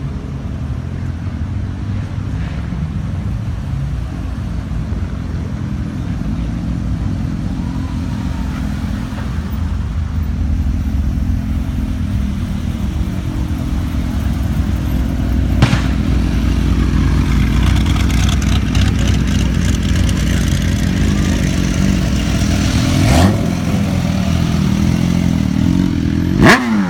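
Car engines running with a loud, steady low rumble, swelling a little over time, and a short rev near the end whose pitch falls away quickly.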